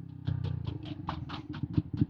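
A 125 cc single-cylinder motorcycle engine running, with a string of sharp ticks or pops starting about a quarter second in, over a fast pulsing exhaust beat.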